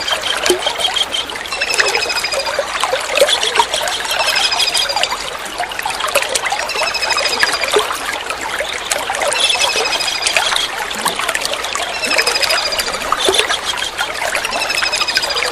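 Kingfisher calls, a short high trill that falls slightly in pitch, repeated about every two and a half seconds over steady trickling water.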